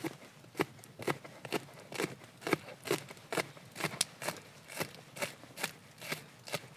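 Regular cutting strokes during food preparation, about two a second, each a short sharp snip or chop.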